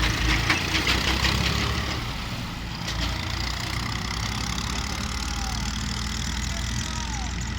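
Diesel engine of farm harvesting machinery running steadily at low revs, with some rattling clicks in the first second or so.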